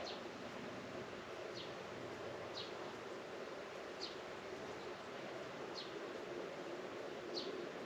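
Rural outdoor ambience: a steady buzzing hum, with a bird repeating a short, high falling note about every second and a half.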